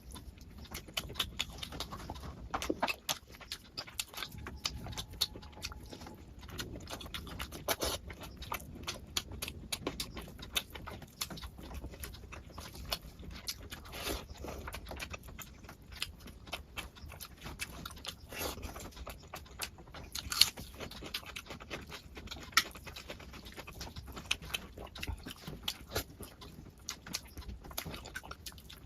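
Close-miked eating: wet chewing and lip-smacking with a dense run of irregular sharp clicks, a person eating curry and rice.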